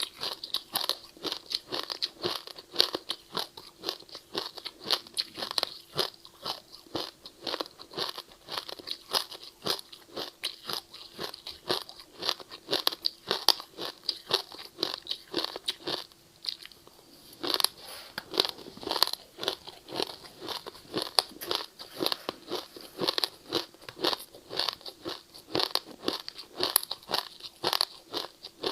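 Ice being bitten and chewed close up: a fast, continuous run of crisp crunches, with a brief pause about two-thirds of the way through.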